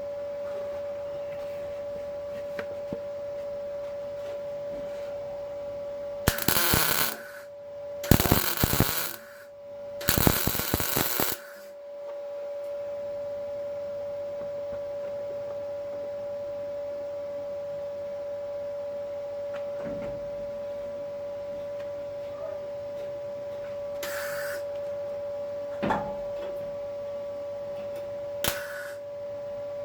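MIG welder laying short welds on car body steel: three crackling bursts of about a second each, a few seconds in, then briefer tacks near the end. A steady hum runs underneath.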